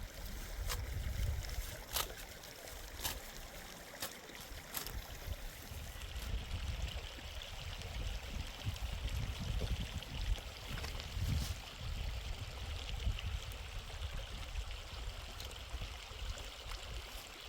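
Mountain stream flowing, a steady rushing hiss that grows fuller about six seconds in, over an uneven low rumble. A few sharp clicks or knocks sound in the first five seconds.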